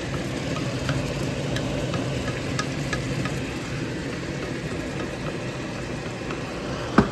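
Onions and spices frying in a cooking pot, a steady sizzle with scattered small ticks. One sharp clink near the end.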